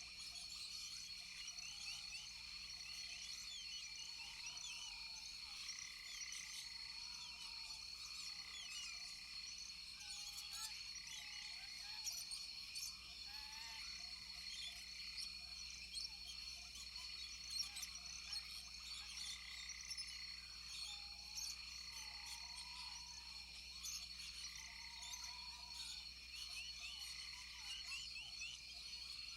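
Rainforest frog and insect chorus: a steady, high insect drone with many quick chirps, and frogs giving short, arched calls every couple of seconds.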